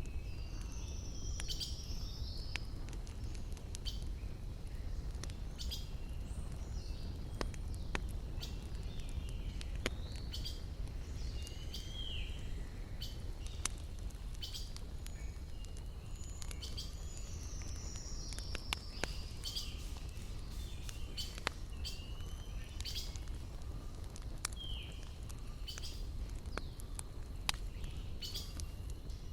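Campfire crackling, with frequent sharp pops of burning wood over a low steady rumble, while small birds chirp and whistle throughout.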